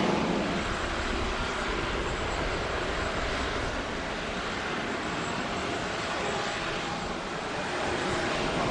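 Jet engines of an Airbus A350-941 (Rolls-Royce Trent XWB), a steady rushing noise with a faint high whine, easing off a little after the first second.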